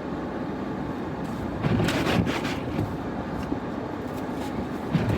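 Steady noise of a car heard from inside the cabin, with a couple of brief swishing sounds about two seconds in and again near the end.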